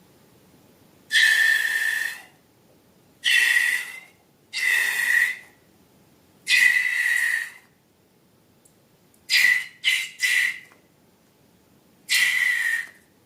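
Air squealing out of a balloon's neck in eight short whistling hisses, three of them in quick succession near the end.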